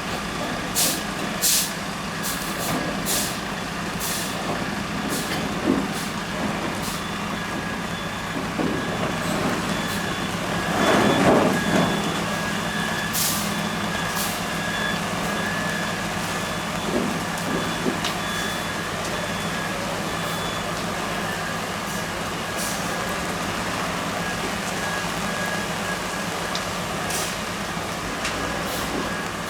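A heavy fire-engine type vehicle running steadily, with a constant hum and a thin whine. Scattered sharp cracks come in the first several seconds and again later, and a loud hissing burst comes about eleven seconds in.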